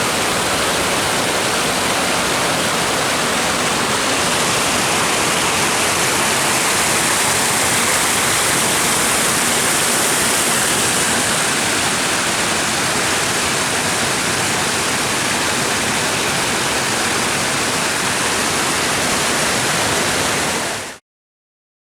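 Waterfall: a loud, steady rush of falling water that cuts off abruptly near the end.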